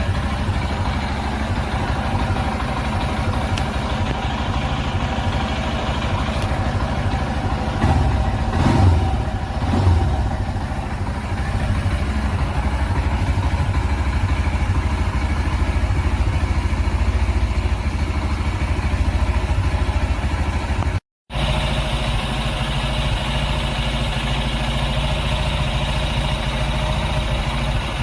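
Steady vehicle engine and road rumble on the move, with two louder bumps about a third of the way in. The sound cuts out for an instant about three-quarters through.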